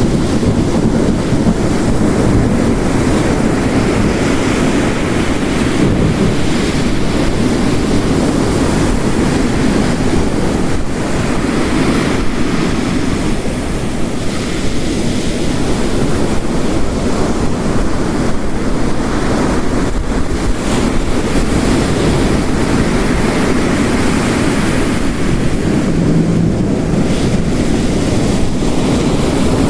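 Mixed storm ambience: ocean waves crashing on a shore, layered with heavy rain, making a steady, dense roar with slow swells and no distinct thunderclap.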